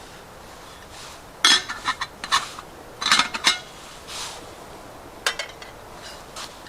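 Camp cookware and utensils clinking and clattering as they are handled, in two short flurries about one and a half and three seconds in, then a single click a little after five seconds.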